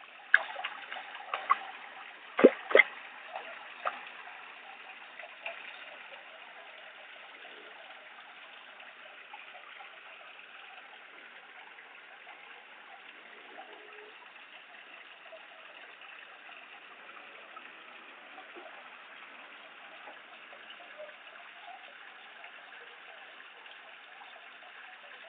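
Water trickling and splashing steadily from a garden waterfall into a koi pond, with a few sharp knocks in the first few seconds.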